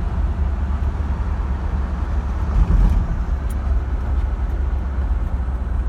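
1957 Ford Thunderbird's V8 running steadily as the car drives, with a low rumble and road noise, a little louder about two and a half seconds in. The engine runs smoothly without a miss now that its corroded distributor cap has been cleaned.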